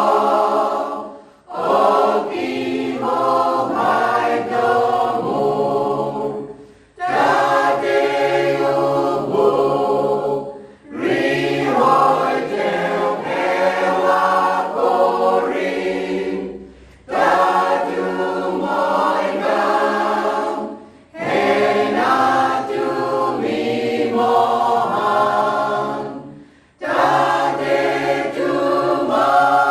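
Choir singing in sustained phrases of about four to five seconds, each ending in a brief pause for breath.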